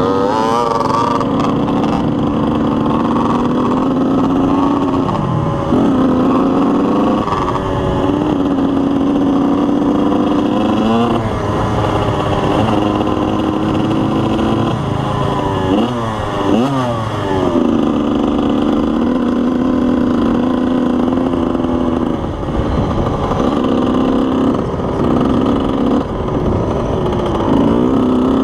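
Motocross dirt-bike engine running hard at high revs. The throttle is chopped and reopened about half a dozen times, so the engine pitch dips and climbs back up with each one.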